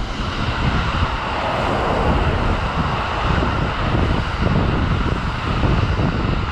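Kintetsu limited express electric trains, the first an 80000 series Hinotori, passing through the station at speed. A steady rushing rumble of wheels on rail with many low thumps, loudest about one to three seconds in, and some wind on the microphone.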